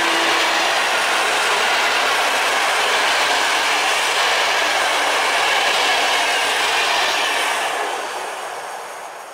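Passenger coaches of a TLK express train rolling past at speed: a steady rush and clatter of steel wheels on the rails. It fades away from about seven and a half seconds in as the last coach passes and the train recedes.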